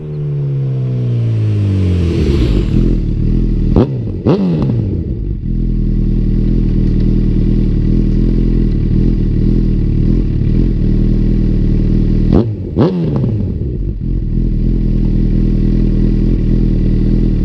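Honda CB1000R inline-four engine through a Yoshimura R-77 exhaust. The revs drop back to idle, then it idles steadily with two quick pairs of throttle blips, one pair about four seconds in and one about two-thirds of the way through.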